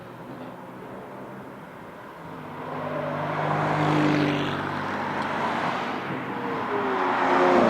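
Porsche 992 GT3 RS with a Brillsteel Edizioni Corsa aftermarket exhaust, its naturally aspirated flat-six running at speed on track. The engine note grows louder from about two seconds in, then falls in pitch near the end as the car comes off the throttle.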